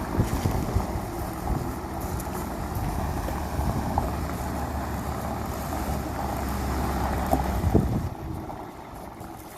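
A vehicle engine rumbling steadily and low, with some wind on the microphone; the rumble drops away about eight seconds in.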